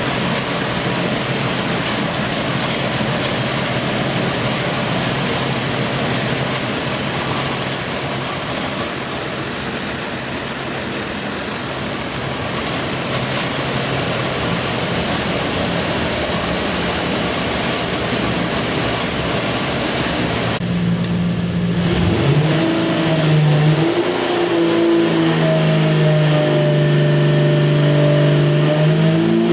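Jeep 4.6-litre stroker straight-six running on an engine dyno: a loud, steady run for about the first twenty seconds, then after a brief drop the engine's note rises and falls as it is revved.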